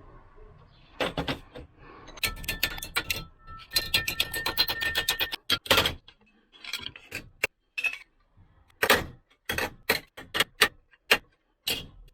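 Hammer blows on a sheet-steel repair patch being formed to shape: a quick run of metallic strikes with a faint ringing from the panel in the first half, then slower single blows.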